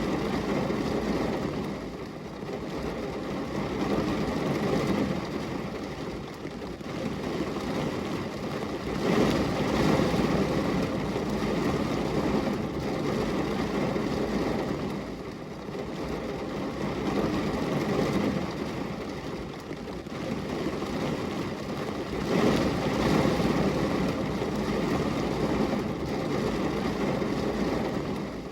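Rain noise: a steady, dense hiss with a deep rumble under it, swelling and easing every several seconds.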